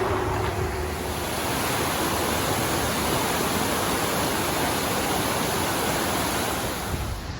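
Waterfall rushing: a steady, even noise of falling water that cuts off abruptly near the end.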